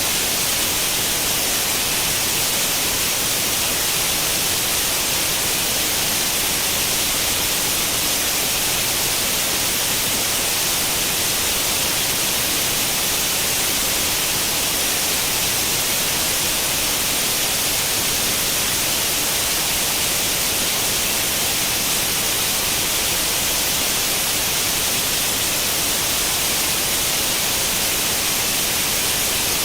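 Steady TV static hiss, the white noise of an old tube television with no channel tuned in, unchanging and strongest in the high, hissy range.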